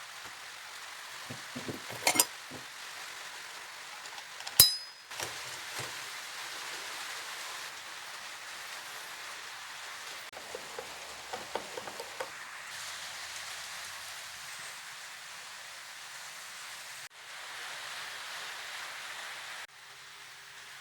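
Steady hiss with a few scattered light clinks and one sharp knock about four and a half seconds in.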